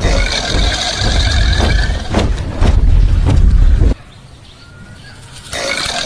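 Crocodile hissing with a deep rumbling growl. It breaks off about four seconds in and starts again a second and a half later.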